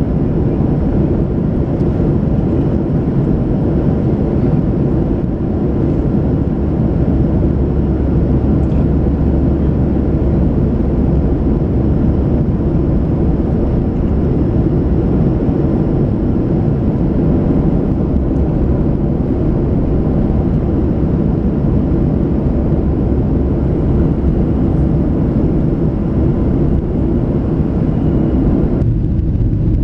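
Steady roar inside the cabin of a Boeing 737-700 in flight: its CFM56-7B jet engines and the airflow over the fuselage, deep and unbroken. Near the end the higher part of the noise cuts off abruptly.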